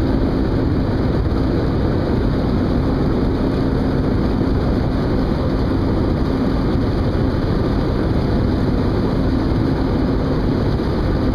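Steady engine drone with a constant low hum, unchanging in level throughout.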